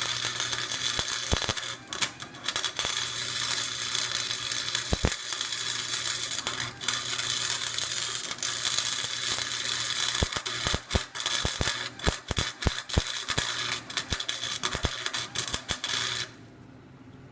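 Wire-feed MIG welder arc crackling and spitting steadily while welding the spider gears of a differential to lock it. The welding stops abruptly about a second before the end, leaving a low hum.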